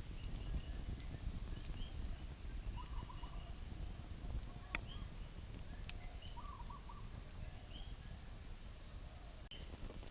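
Birds chirping in short scattered calls over a constant low rumble, with a steady thin high tone and one or two sharp clicks.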